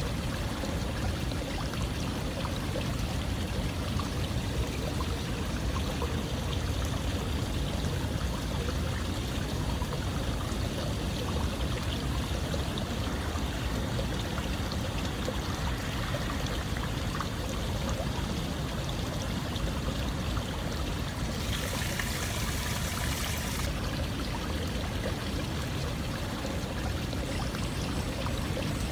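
Running water flowing steadily, like a stream or water pouring, with a brighter hiss for about two seconds a little past the middle.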